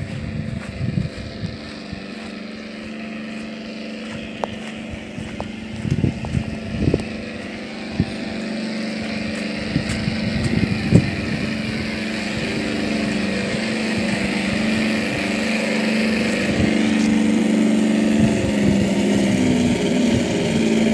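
Simulated radial engine sound from the sound module of an RC T-28 Trojan model, played through its speaker with no propeller fitted: a steady, even engine drone that grows steadily louder. A few short thumps stand out about six and eleven seconds in.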